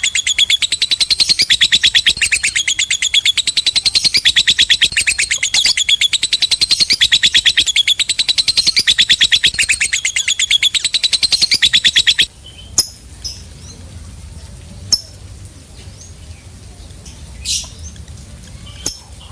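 Lovebird singing a long 'ngekek': a rapid, unbroken chattering run of sharp, high repeated notes. It cuts off abruptly about twelve seconds in, leaving only a few scattered short chirps.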